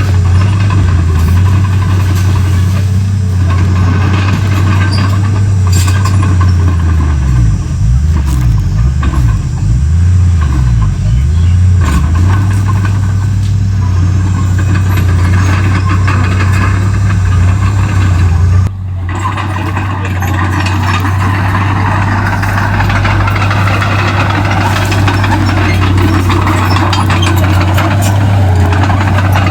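Komatsu D31P crawler bulldozer's diesel engine running with a steady low drone. The sound drops out for an instant about two-thirds of the way through, then carries on with more higher-pitched noise over the same drone.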